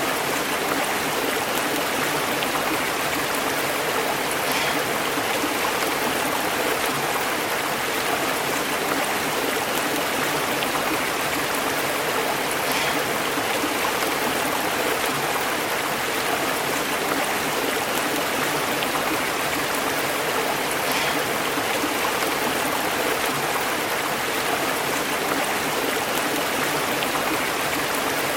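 Stream water running and burbling over rocks, a steady rush with small splashes.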